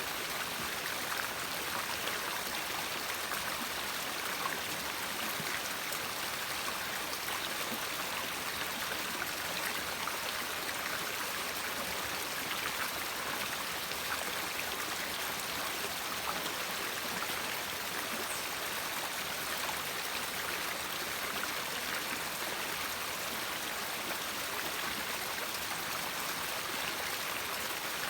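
River water flowing in a steady, continuous rush and trickle.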